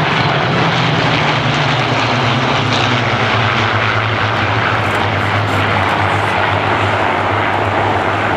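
Propeller aircraft's piston engine flying past: a loud steady drone that slides slowly lower in pitch as the plane goes by.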